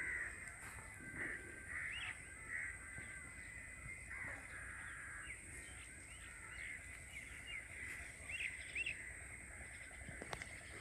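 Birds calling: a string of short, high chirps scattered throughout, fairly faint.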